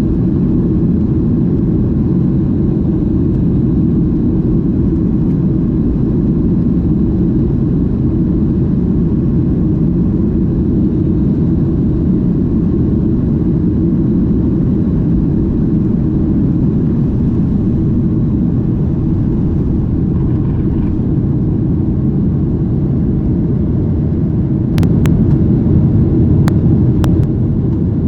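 Steady low rumble of an aircraft taking off, heard from inside the cabin. A few sharp clicks and a slight rise in level near the end.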